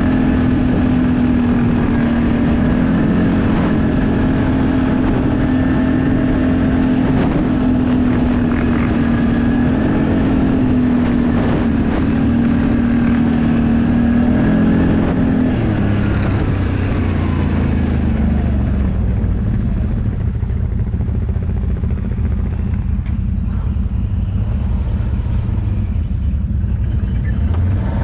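An off-road vehicle's engine running at high, fairly steady revs. About halfway through the revs ease off to a lower, deeper note.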